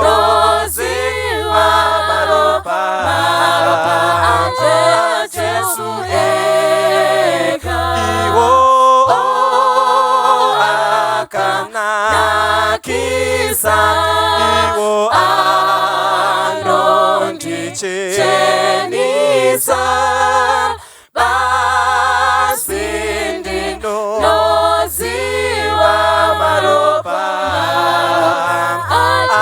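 Church vocal group singing a Shona hymn a cappella in close harmony, with a deep bass line under the upper voices. The singing breaks off briefly about two-thirds of the way through, then carries on.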